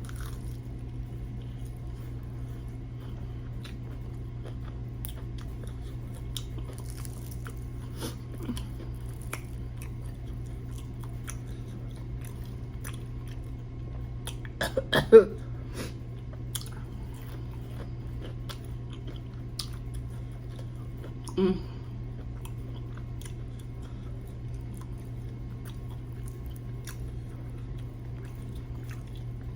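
A person chewing and biting into crispy mustard-fried chicken, with small crunches and mouth clicks over a steady low hum. There is a short louder sound about halfway through and another about 21 seconds in.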